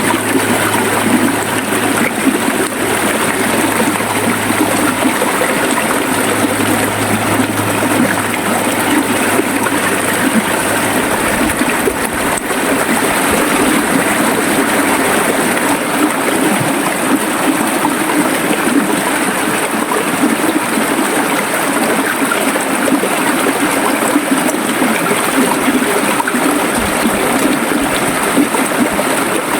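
River water flowing steadily, a continuous rushing of water.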